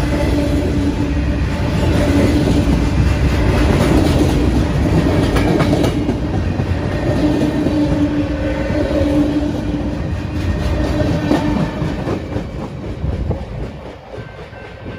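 Freight cars of a manifest train rolling past close by: steel wheels rumbling and clicking over the rail joints, with a steady tone that comes and goes. The sound fades after about twelve seconds as the last car passes and moves away.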